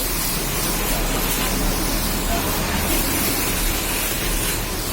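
High-pressure washer jet spraying water onto a car, a steady hiss with no breaks.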